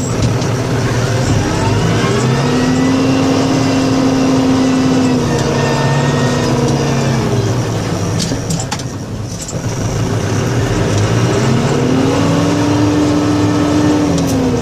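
Engine of a snow-plowing vehicle revving up, holding, then dropping back, twice over.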